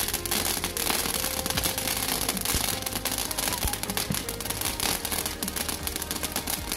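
Small garden firework fizzing with dense, rapid crackling that goes on steadily.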